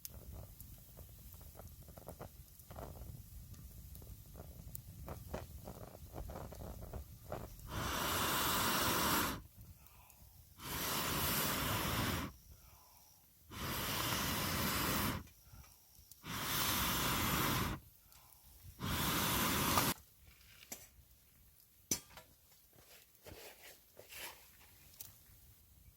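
A person blowing into a campfire to raise the heat under a wok: five long puffs of hissing air, each about a second and a half, with short pauses for breath between them. Light crackling and ticking from the fire before and after the puffs.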